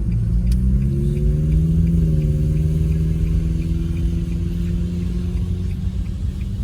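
Car engine and road rumble heard from inside the cabin; the engine's pitch rises over the first two seconds as the car accelerates, then holds steady as it cruises.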